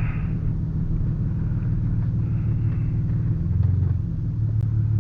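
Car engine and road noise heard from inside the cabin while driving, a steady low drone whose pitch dips briefly about three and a half seconds in.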